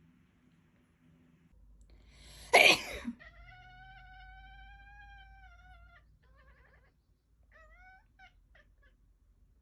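A sudden very loud, harsh burst about two and a half seconds in, followed by a domestic cat's long, drawn-out meow of about three seconds, then a few short meows near the end.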